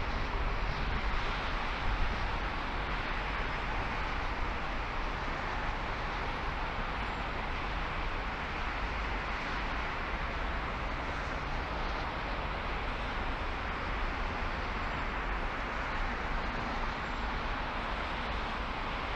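Steady road noise of a car being driven: even tyre and engine noise with a low rumble.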